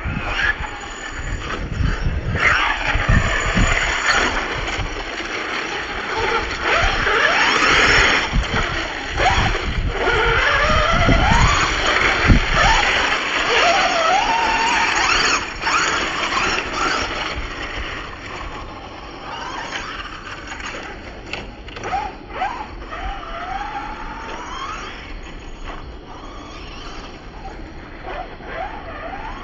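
Radio-controlled trucks' electric motors whining, the pitch repeatedly rising and falling as they speed up and slow down, over rough rumbling of tyres on the ground. It is louder through the first half.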